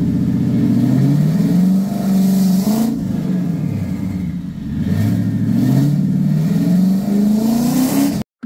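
Turbocharged V8, an Infiniti Q45 engine fitted with a GT45 turbo, revved twice under load against the brakes: each time the pitch climbs over a couple of seconds with a hiss building at the top, dropping back in between. The sound cuts off suddenly near the end.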